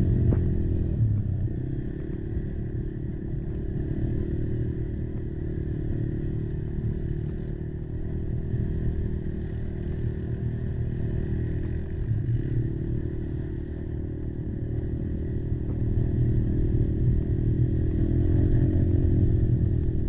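Kymco Maxxer 300 quad's engine running under throttle while riding, its note shifting a little as speed changes and getting louder near the end.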